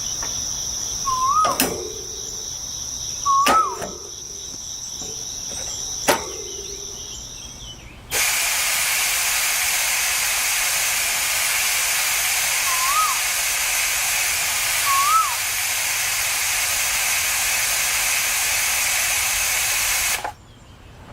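A steady high insect-like buzz with a few sharp clicks and short whistled chirps, then a sudden switch to a loud, steady hiss lasting about twelve seconds, with two more short chirps over it; the hiss cuts off abruptly near the end.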